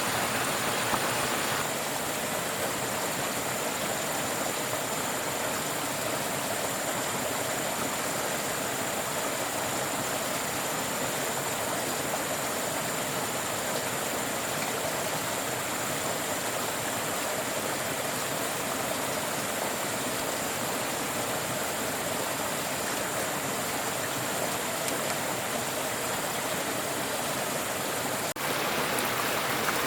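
Steady rushing water, an even hiss with no distinct strokes; its sound shifts slightly about two seconds in and again near the end.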